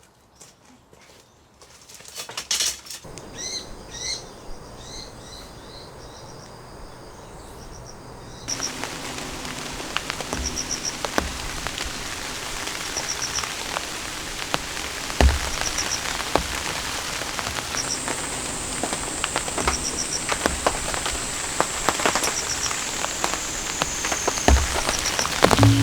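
Rain falling in a forest, with drops hitting a nearby surface in sharp taps. A bird's short high chirps repeat every couple of seconds. The rain gets markedly louder and denser about eight seconds in.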